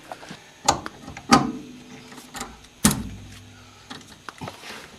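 Metal clanking as a steering tie rod assembly and tools are handled and fitted to the front suspension: a few sharp knocks, each with a short metallic ring, the loudest near the three-second mark.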